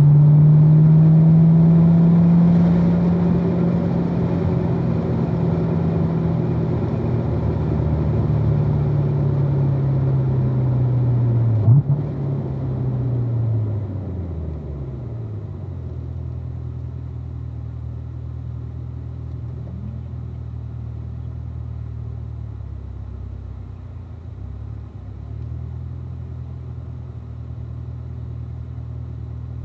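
2016 Corvette Z06's supercharged 6.2-litre V8 running, its note falling slowly as it comes off the throttle, with a sharp quick blip about twelve seconds in, then settling into a steady low-rev drone.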